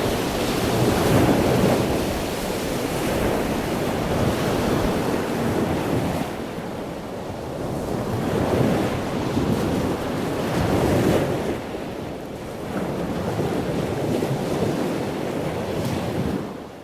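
Wind buffeting the microphone over the rush of sea water, rising and falling every few seconds, then fading out at the very end.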